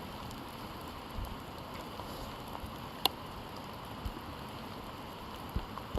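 Steady rain pattering on the forest around. One sharp click about three seconds in, with a few soft low thumps scattered through.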